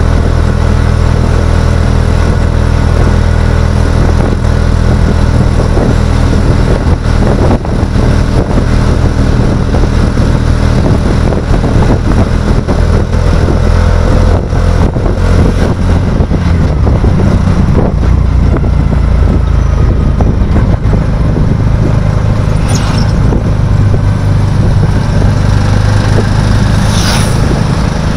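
Motor vehicle engine running loud and steady while on the move, its note shifting partway through, with two brief high-pitched sounds near the end.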